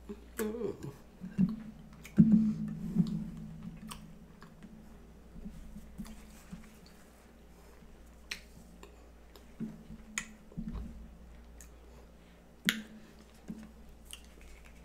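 Chewing of chocolate pecan cake, with scattered sharp clicks; loudest for a second or so about two seconds in.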